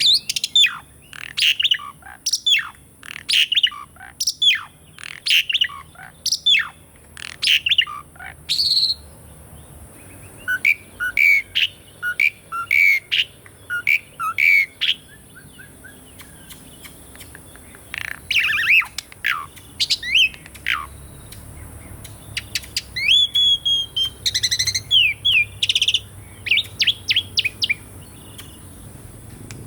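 Asian pied starling singing: a rapid string of sharp, downward-sweeping whistled notes, then a run of repeated shorter notes. After a pause of a few seconds it continues with more varied whistled phrases.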